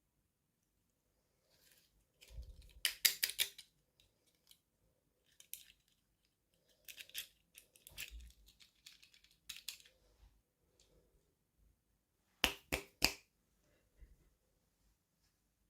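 Toy packaging being handled and opened by hand: scattered bursts of sharp plastic clicks and rustling with quiet gaps, the loudest a quick run of clicks about three seconds in and another about twelve seconds in.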